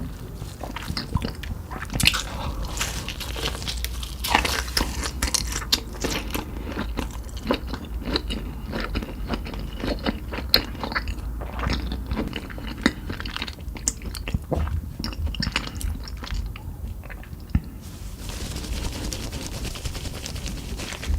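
Close-miked crunchy eating: biting into and chewing Cheetos-crusted fried meat fingers, with dense, irregular crunches. The crunching thins out near the end.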